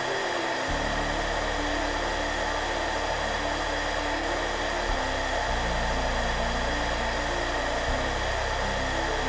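Hairdryer blowing with a steady, even rushing noise, mixed with soft background music whose low notes change every second or so.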